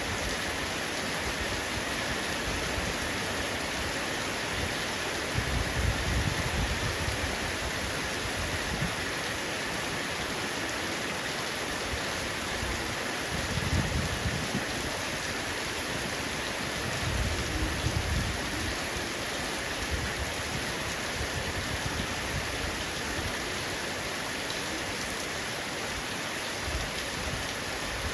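Heavy rain falling steadily on a roof. Three brief low rumbles swell up under it, about six, fourteen and eighteen seconds in.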